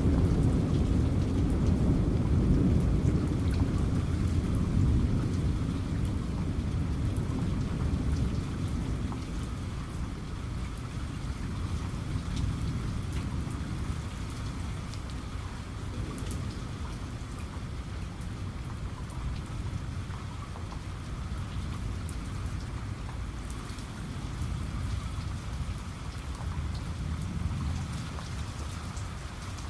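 Steady rain falling, with a low rumble of thunder dying away over about the first ten seconds.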